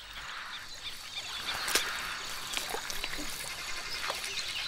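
Wet mud and water sloshing and splashing as elephants wallow, with a few short splats standing out, one clearly about two seconds in.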